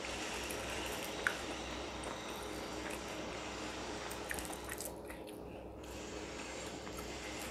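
Close chewing and small mouth and finger sounds of a person eating by hand, over a steady faint background hum, with a sharp little click about a second in.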